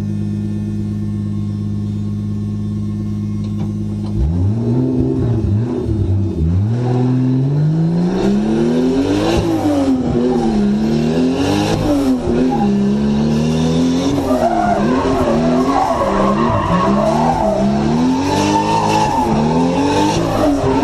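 Drift car's engine idling steadily, then from about four seconds in revving up and down again and again as the car drifts, with tyre squeal, heard from inside the car.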